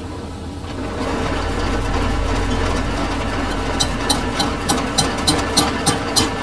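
Lathe running with a steady mechanical hum that builds up about a second in. About four seconds in, a regular ticking of roughly three strokes a second joins it.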